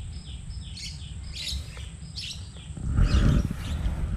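A bird calling in a run of short falling chirps, about three a second, over a steady low rumble. About three seconds in, a louder low rumbling noise comes in.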